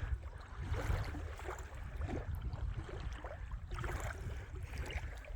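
Lake water sloshing and splashing in small irregular gurgles at the shoreline, over a steady low rumble of wind on the microphone.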